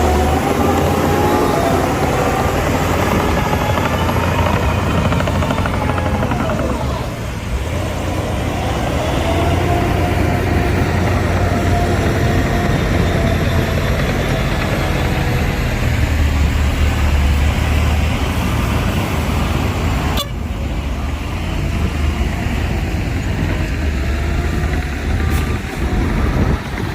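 Heavy diesel machinery, dump trucks and a bulldozer, engines running with a deep rumble and a pitched tone rising and falling as they work. A sharp click comes about 20 seconds in.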